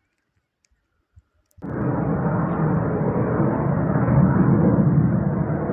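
Jet aircraft roar cutting in suddenly about a second and a half in and holding loud and steady, a deep rumble without any high hiss.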